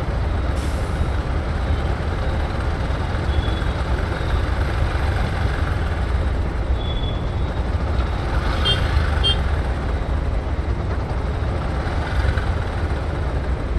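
Steady low rumble of a motorcycle riding through city traffic, engine and wind noise together, with two short high beeps about nine seconds in.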